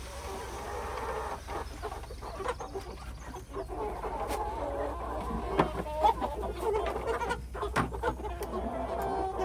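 A flock of broiler chickens clucking together while feeding, many short calls overlapping, growing louder in the second half.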